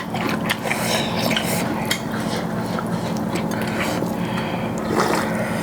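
Eating at a plate: rice and chicken gravy being mixed and scooped, with light clinks and scraping against the plate.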